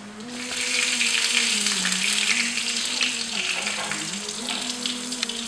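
A steady hiss of kitchen food preparation, like a running tap or frying, loudest in the first half and fading toward the end, over soft background music of held notes.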